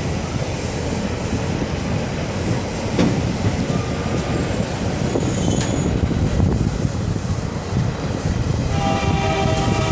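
Passenger train running along the rails with a steady rumble and rattle. Near the end, the train's horn starts sounding, one steady chord-like blast.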